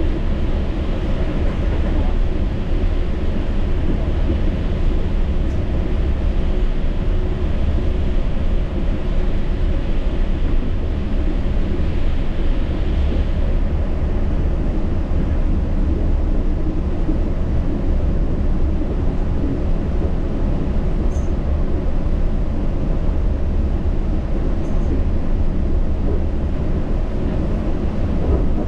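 Yurikamome rubber-tyred automated guideway train running steadily along the guideway, a constant low rumble heard from inside the car. A higher hiss rides on it and fades out about halfway through.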